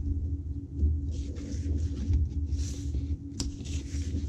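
Paper pages of a handmade journal being handled and turned: a few soft rustles and one sharp click, over a steady low rumble.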